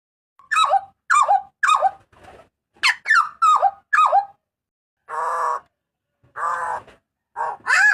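Butcherbird (jagal papua) calling loudly: a run of short, sharp notes that sweep steeply in pitch, then two harsh rasping notes about five and six and a half seconds in.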